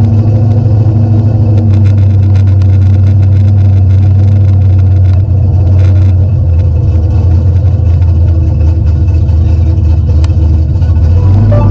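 V8 engine of a Fox-body Mustang with a 408 cubic-inch engine swapped in, running at a steady speed with a deep, even exhaust note. The pitch dips a little about halfway through and shifts again near the end.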